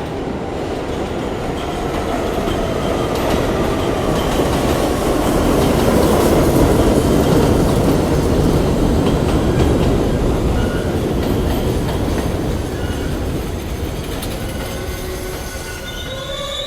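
New York City subway train running along the elevated Jamaica Line, a steady rumble of wheels on rail that grows louder to a peak midway and then eases off. Near the end, high-pitched wheel squeal sets in.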